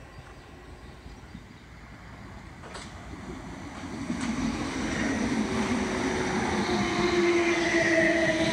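South Western Railway suburban electric multiple unit approaching and running past on the nearest track: its noise grows from about three seconds in, then holds as steady wheel-on-rail noise with a whine that falls slightly in pitch.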